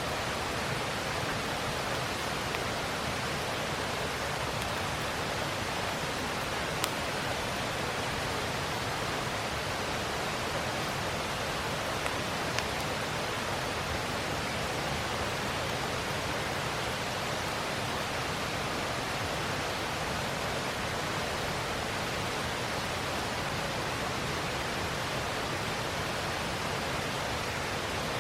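Steady rushing of a river, with a few sharp pops from a wood campfire, the loudest about seven seconds in.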